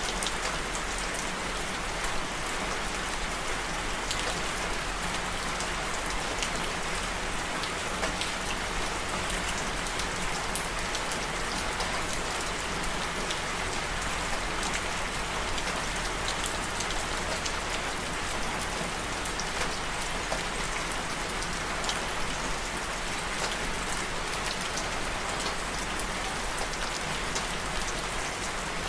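Steady rainfall, a continuous even hiss with scattered individual drops ticking on a surface.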